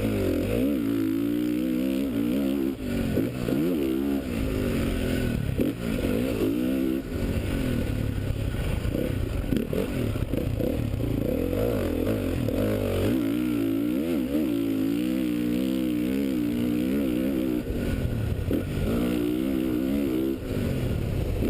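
2013 Honda CRF450's single-cylinder four-stroke engine heard on board while ridden around a motocross track, its pitch rising and falling every second or two as the throttle is opened and closed.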